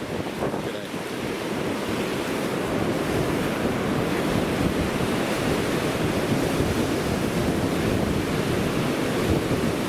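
Ocean surf washing on a beach under strong wind buffeting the microphone, a steady rushing noise that builds slightly about a second in.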